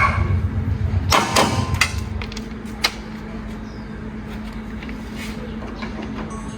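A few sharp knocks over a low rumble that falls away about two seconds in, with a steady low hum underneath.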